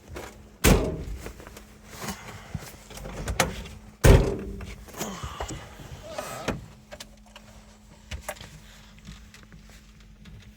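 Two heavy thuds about three and a half seconds apart, the Suzuki Samurai's door being shut, with lighter knocks, clicks and rustling between and after them, over a faint steady hum.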